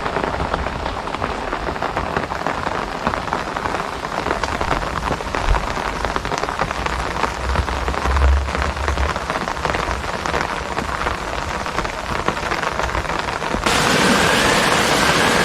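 Steady rain falling, a dense patter of many small drops recorded on a phone's microphone. About 14 s in, the sound cuts abruptly to a louder, smoother hiss with a faint wavering tone.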